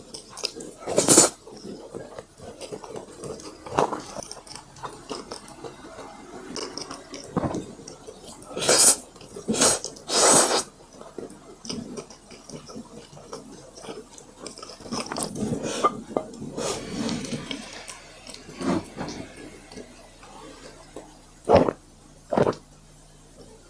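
Close-miked eating sounds: wet chewing, with scattered knocks and clinks of utensils on dishes. The loudest bursts come about a second in and around nine to ten seconds in.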